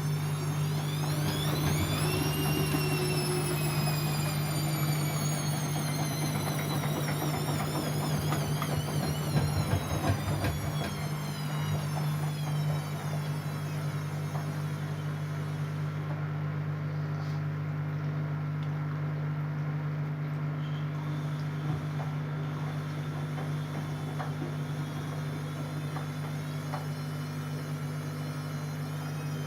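Siemens Siwamat C10 washing machine running. A motor whine rises sharply in the first couple of seconds, then falls slowly over about ten seconds and fades, over a steady low hum.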